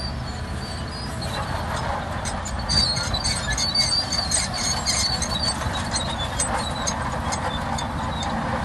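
SHANTUI DH17C2 crawler bulldozer running, its diesel engine rumbling steadily under high-pitched squeals and clicks from the steel tracks, loudest in the middle.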